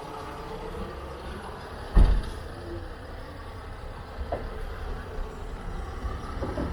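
Street traffic with the low running of a large vehicle nearby, and a sharp, loud thump about two seconds in, with a smaller knock a couple of seconds later.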